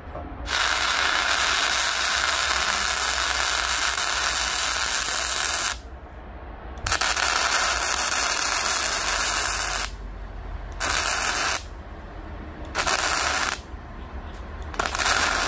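Electric arc welding on a steel wood-stove body, fixing the wood feed opening in place: a steady hiss for about five seconds, another of about three seconds, then three short welds of under a second each.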